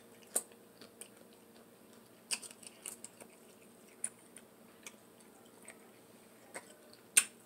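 Close-miked chewing and mouth sounds from eating: scattered short, wet clicks and smacks on a quiet background, the sharpest one near the end.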